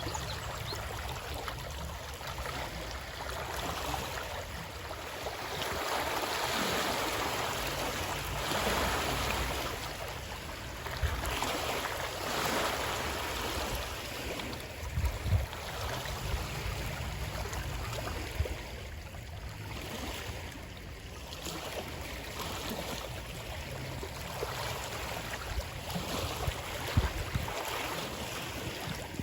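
Running water: a steady rush that swells and eases every few seconds, with a few brief low thumps.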